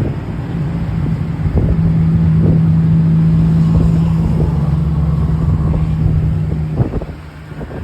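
A Thai State Railway train running, heard from inside a non-air-conditioned carriage: a steady low drone with knocking and rattle under a noisy rush. The drone grows louder about a second and a half in and cuts off abruptly near the end.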